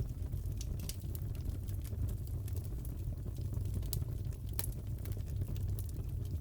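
Fireplace crackling: a steady low rumble of burning logs with scattered sharp pops and snaps, one louder snap about two-thirds of the way through.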